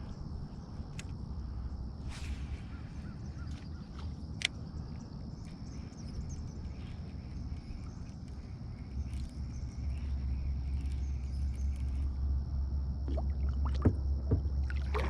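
Outdoor ambience from a kayak on a river: a steady low rumble with a faint steady high-pitched tone over it, a few sharp ticks, and some short bird-like calls near the end.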